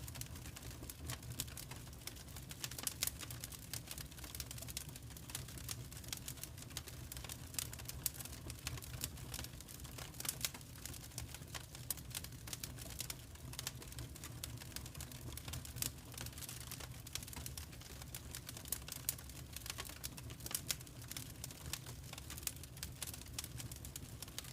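Wood fire crackling in a fireplace: a steady stream of small irregular pops and snaps over a low, even rumble.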